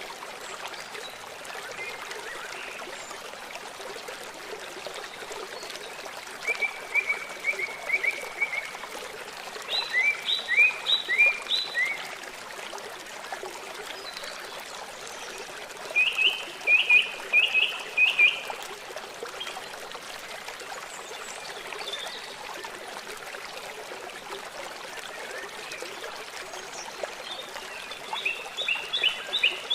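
A songbird singing four short phrases of quick repeated chirping notes, spaced several seconds apart, over the steady rush of a flowing stream.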